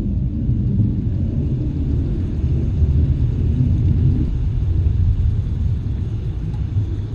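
A steady low rumble with no clear pitch, holding level and easing off slightly near the end.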